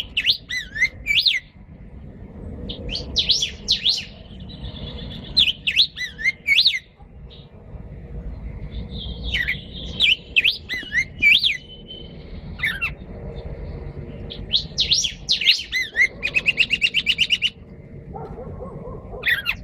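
Caged songbirds singing: a string of clear warbling phrases, with a fast trill of rapid repeated notes near the end.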